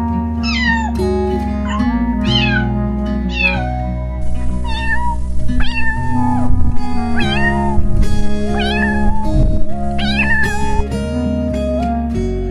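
Cat meowing over and over, short falling calls about once a second, over background music with held notes and a steady bass. The meows get louder through the middle, with a hiss underneath.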